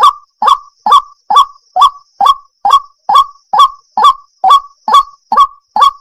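Waterhen calling over and over: short, loud, harsh notes repeated at an even pace of about two a second, each rising sharply at its start.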